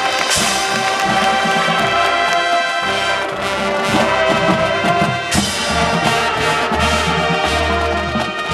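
High school marching band playing: the brass section sounds sustained chords over drums, with a loud new entrance about five seconds in.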